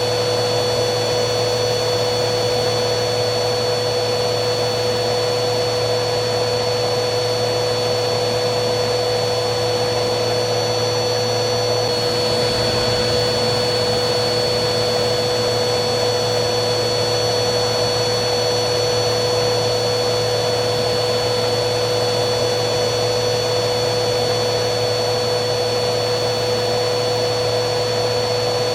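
Vacuum cleaner motor running steadily, a constant whooshing noise with a high whine and a low hum. The whine steps up slightly in pitch about twelve seconds in.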